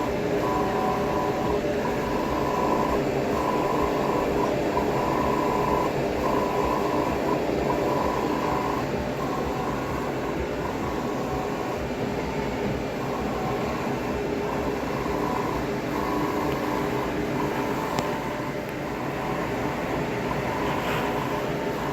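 A machine running with a steady rumble. Over it, a high whine-like tone switches on and off roughly once a second, which is the noise being complained of.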